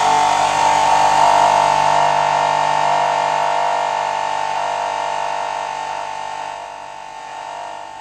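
Modular synthesizer patch of an FM oscillator run through distortion and a filter, holding a sustained tone of several steady pitches that fades away gradually over the last several seconds.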